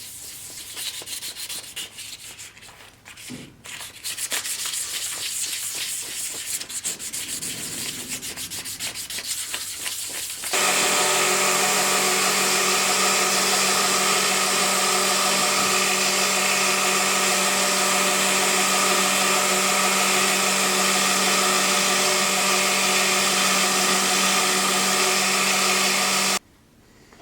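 Sanding by hand, with irregular scratchy strokes. About ten seconds in, an electric sanding or grinding machine starts and runs at a steady pitch, then cuts off suddenly near the end.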